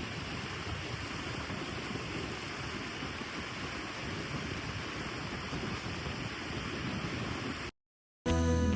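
Skógafoss waterfall: a steady rush of falling water that cuts off abruptly near the end, followed by the start of background music.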